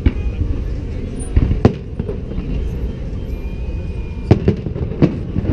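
Fireworks bursting overhead: about five sharp bangs at uneven intervals, two of them close together about a second and a half in, over a steady low rumble.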